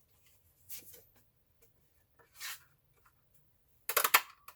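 Craft supplies being rummaged through on a worktable: a couple of soft rustles, then a quick run of sharp clacks near the end.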